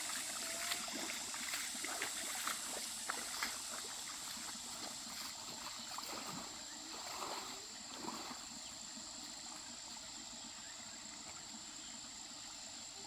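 Water splashing and trickling. A run of small splashes and clicks in the first few seconds gives way to a quieter, steady trickle.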